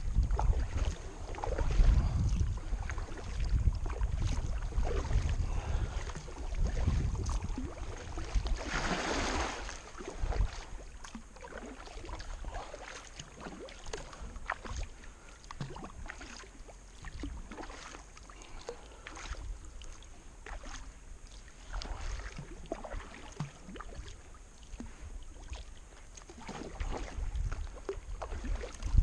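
Kayak paddling upstream against the current: irregular paddle strokes dipping and splashing in the water, with a louder splash about nine seconds in and low rumble on the microphone in the first part.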